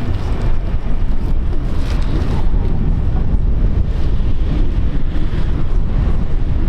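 Wind buffeting the microphone: a loud, steady low rumble with faint wavering tones above it.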